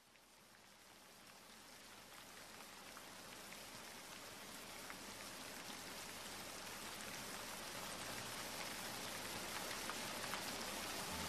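Steady rain falling: an even hiss with scattered sharp drop ticks, slowly growing louder.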